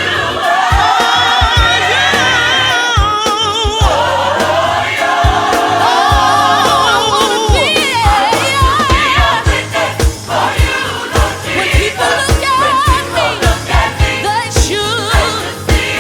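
Gospel worship music: voices singing long, wavering notes with heavy vibrato over a band with a steady low drum beat.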